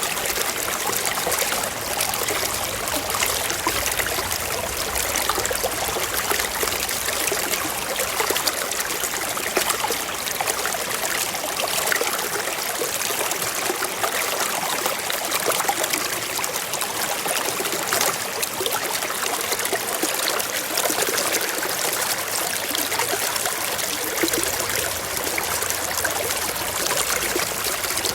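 Small stream trickling and babbling over rocks, a steady, even rush of water.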